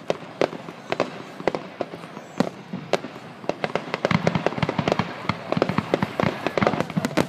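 Aerial fireworks going off: a rapid string of sharp bangs and crackles that grows denser and louder about halfway through.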